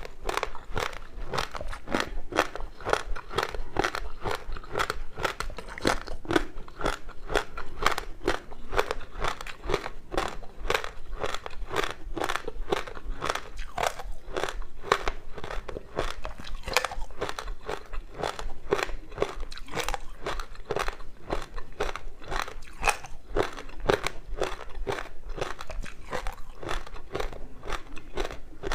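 Frozen passion fruit ice with sesame seeds being bitten and chewed: a continuous run of sharp crunches, about three a second.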